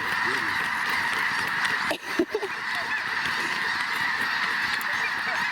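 Dense chorus of a huge flock of snow geese calling at once, a steady din of overlapping honks. About two seconds in, the din briefly drops and a short louder sound cuts through.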